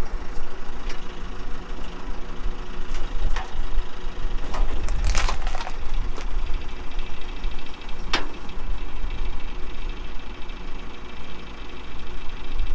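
Small tractor engine running steadily while the trailer is lowered onto the tractor's hitch, with several metallic clanks from the coupling, the loudest about five seconds in.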